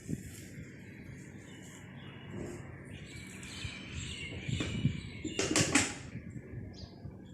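Birds chirping over a steady background hum, with a couple of sharp knocks about two-thirds of the way in.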